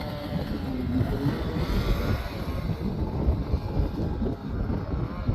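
Snowmobile engine running, a rough steady drone with wind on the microphone.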